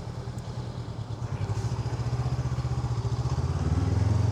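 Honda NX500's parallel-twin engine running while riding, a steady pulsing note that grows louder toward the end.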